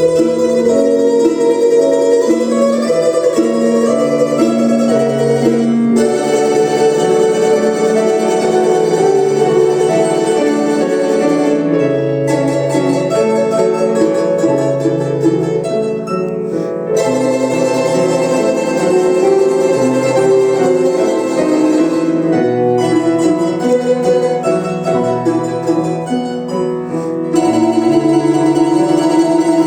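A quartet of domras, Russian plucked-string instruments, playing a melody together in several parts, phrase after phrase with short breaks between them.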